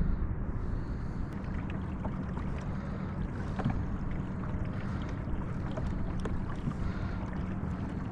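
Steady wind and water noise around a kayak on open water, with small scattered clicks and a steady low hum.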